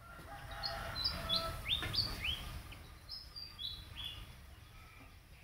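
A bird chirping: a quick run of about ten short, high whistled notes, several of them sweeping sharply upward, over a faint low rumble.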